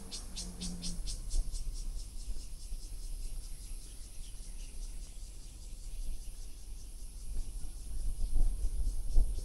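Insects calling: a rhythmic high chirping at about four or five pulses a second that fades out a second or two in, over a steady high-pitched insect drone. A low rumble, likely wind on the microphone, swells near the end.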